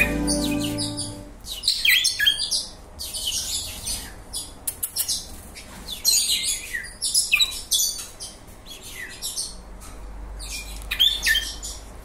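Cage birds chirping, many short high calls in quick clusters, several of them falling in pitch. Background music fades out about a second in.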